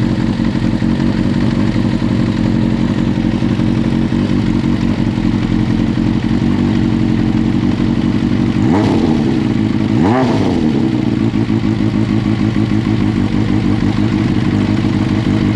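Kawasaki ZRX400's inline-four idling through a WR'S aftermarket muffler. About halfway through it gets two quick throttle blips, the pitch shooting up and dropping straight back, a second and a half apart.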